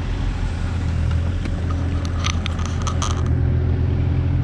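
Engine of earth-moving equipment running at a steady speed, a low drone, with a few short metallic clicks in the middle.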